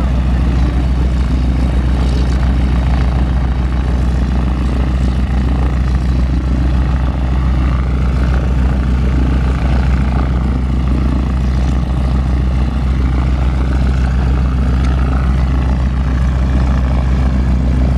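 Stearman biplane's 450 hp Pratt & Whitney R-985 nine-cylinder radial engine idling steadily with its propeller turning, warming up on the ground after start.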